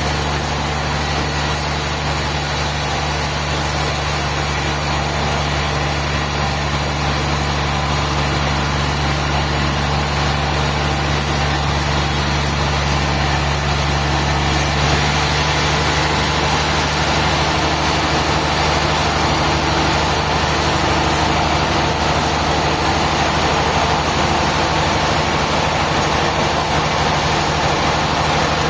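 Heavy machinery running steadily with a low engine drone. From about halfway through, a brighter hiss is added on top.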